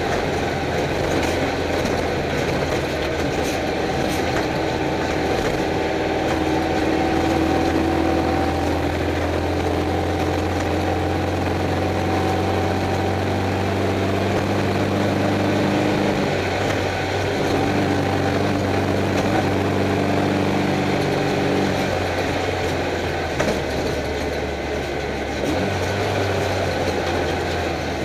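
Stock VW Beetle's air-cooled flat-four engine running hard, heard from inside the car, over a constant noisy rumble of the car on dirt. The engine note shifts in pitch several times as the throttle and gears change.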